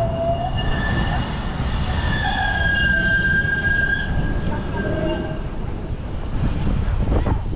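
Steel wheels of a rail vehicle squealing against the rails over a low rumble: several high, wavering tones that are loudest in the first few seconds and fade out a little past halfway.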